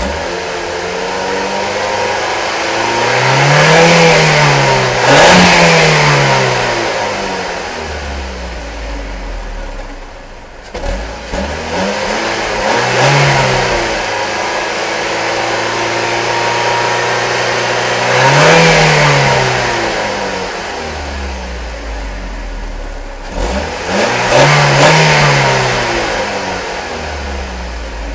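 A 2007 Ford Focus ZX3 S's 2.0-litre four-cylinder engine, heard at the exhaust, idling and being revved about four times, several seconds apart. Each rev rises and falls in pitch over a couple of seconds.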